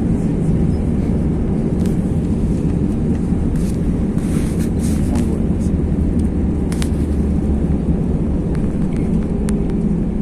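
Airbus A321 cabin rumble as the airliner rolls along the ground after landing: a steady low drone with small rattles and clicks from the cabin.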